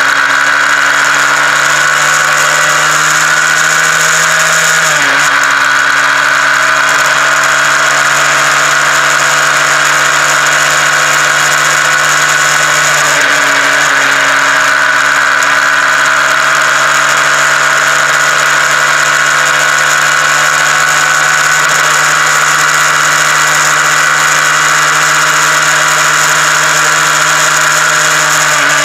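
Honda CBR125R's single-cylinder four-stroke engine running under way, its pitch climbing slowly and then dropping sharply about five seconds in as it shifts up a gear, with a short dip in pitch around the middle.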